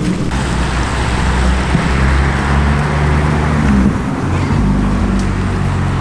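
A car engine running at a steady pitch under a steady hiss, the pitch shifting a little about four seconds in.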